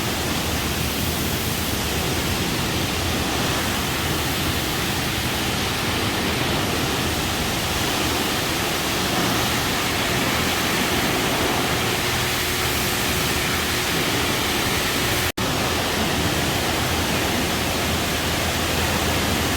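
Steady rushing noise of car wash equipment, the hiss and roar of running machinery with a faint low hum, breaking off for an instant about fifteen seconds in.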